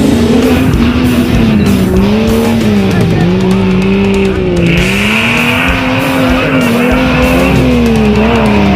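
Off-road 4x4 engine revving, its pitch rising and falling as the throttle works, over background music.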